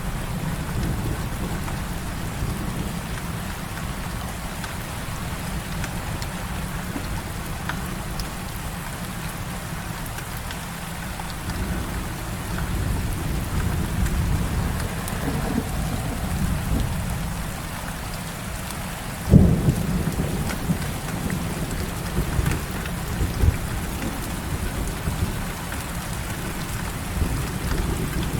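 Heavy rain falling steadily with a low rumble of thunder underneath. About two-thirds of the way through comes one sudden, louder thunderclap, followed by a couple of smaller rumbles.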